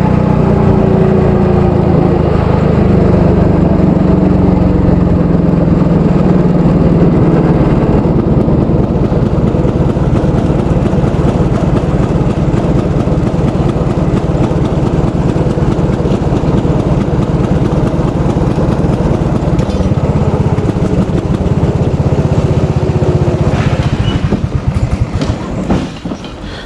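300cc go-kart engine heard onboard, its revs falling over the first couple of seconds, then running slowly with a rapid, rough firing pulse. The engine sound drops away about 25 seconds in.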